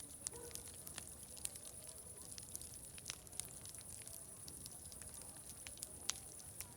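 Wood fire crackling, with irregular sharp pops, over a faint murmur of distant voices and a steady high hiss.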